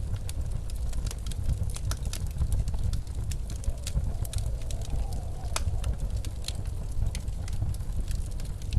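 Wood fire crackling in a fireplace, with irregular sharp pops and snaps, over the steady low rumble of blizzard wind. A faint wavering wind howl rises and falls around the middle.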